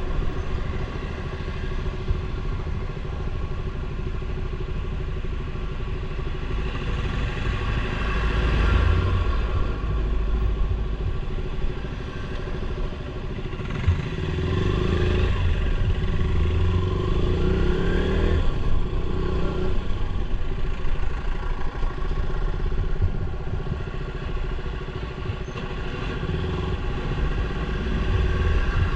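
Motorcycle being ridden along a road: the engine runs steadily under wind and road noise, and its pitch rises and falls for a few seconds around the middle.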